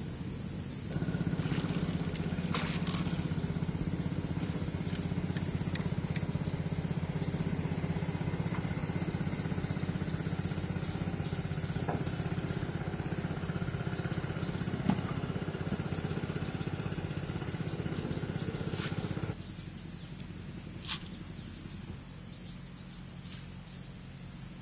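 A small engine running steadily, starting and cutting off abruptly, the second time near the end.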